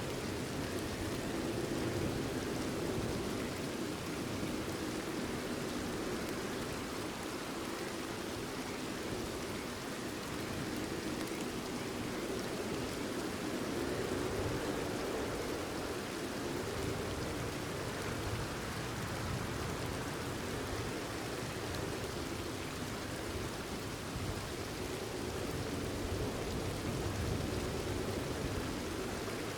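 Steady rain falling, an even continuous hiss and patter with no single drops or thunder standing out.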